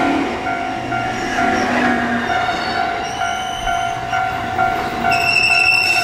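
Electric train at a station platform: a steady pulsing tone with a repeating higher beep over rail noise. About halfway through, high squealing tones join in and grow strongest near the end.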